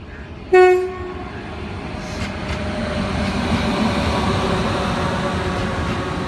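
WAP4 electric locomotive sounding one short horn blast about half a second in, followed by the rumble and track noise of the express train approaching at speed, growing steadily louder.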